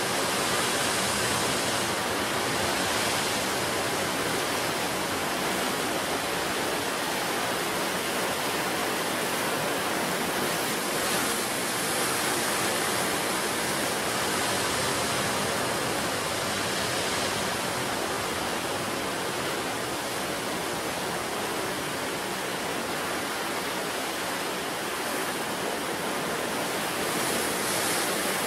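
Sea surf on the shore: a steady rushing wash of waves with gentle swells every few seconds.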